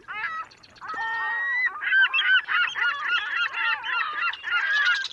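Many birds calling at once in overlapping, honk-like calls. A long call comes about a second in, and the calls grow dense from about two seconds in.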